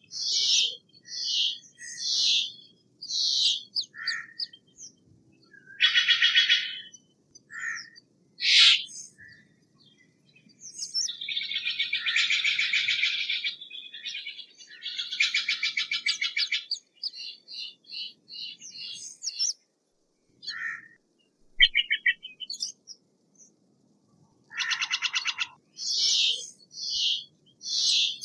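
Steller's jay calling: harsh, raspy calls made of fast pulses, one of them drawn out for about two seconds near the middle, alternating with quick runs of short, higher notes.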